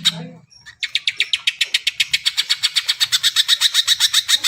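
Cucak ijo (green leafbird) singing a fast run of short, high repeated notes, about a dozen a second, with a brief break under a second in.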